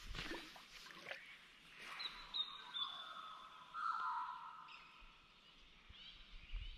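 Birds calling in the forest: whistled notes, one held high tone and, about four seconds in, a lower note that drops in pitch, with a few soft clicks in the first second.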